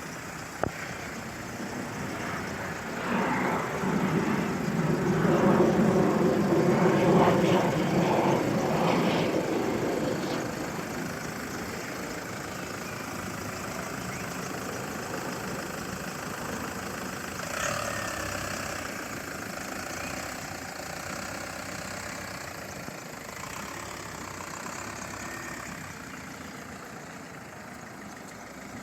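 A motor vehicle engine running. It grows louder for several seconds early on, then settles to a steadier, quieter idle.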